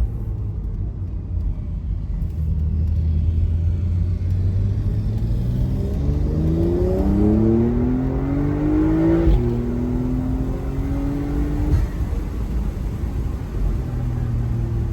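Porsche 992.2 Carrera's turbocharged flat-six cruising at low revs, then pulling hard with the revs rising through a gear. About nine seconds in it drops sharply on an upshift and climbs again, then falls off a couple of seconds later.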